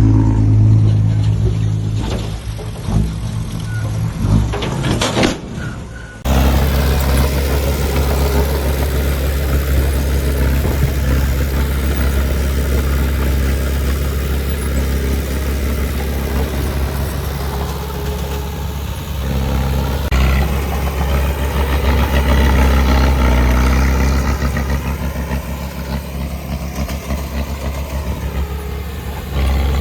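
Diesel engine of heavy earthmoving equipment running steadily. About six seconds in the sound cuts abruptly to a louder, deeper, steady engine drone.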